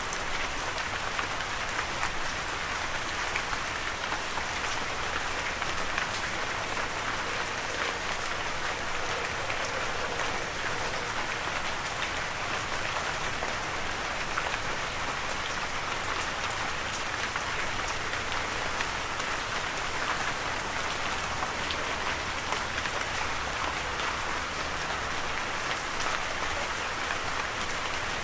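Steady rain falling, an even hiss of rain with many small drop ticks throughout.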